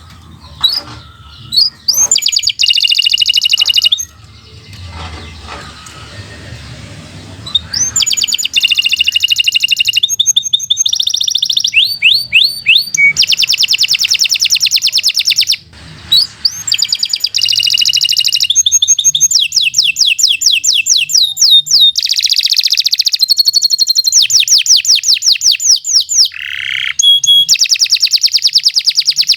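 Domestic canary singing a long, unbroken song of fast trills and rolling tours, switching to a new trill every second or two. A softer warbling passage runs from about four to eight seconds in.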